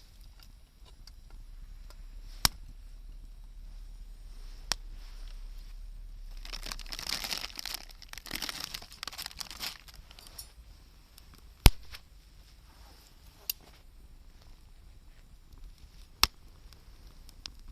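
Campfire crackling: a handful of sharp, single pops from the burning wood, with a few seconds of rustling hiss in the middle.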